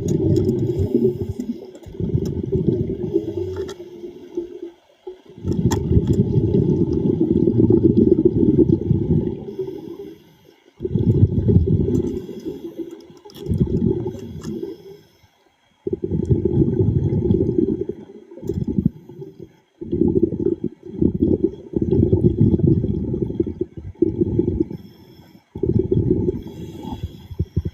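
Underwater rush and gurgle of a diver's exhaled air bubbles, coming in repeated bouts of one to several seconds with short quiet gaps between breaths.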